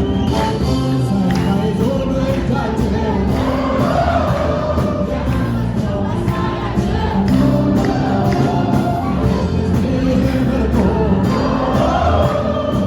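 Ethiopian gospel song (mezmur): singing with a choir-like sound over instrumental backing and a steady beat.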